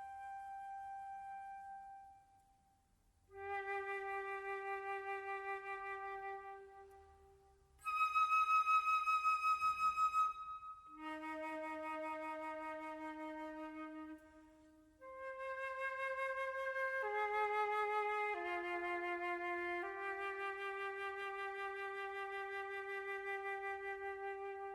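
Slow solo flute music: long held notes, each swelling and fading, with short pauses between the early phrases and a few quicker note changes later.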